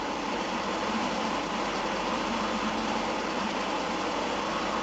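Steady noise of a moving car: engine and road noise holding at an even level.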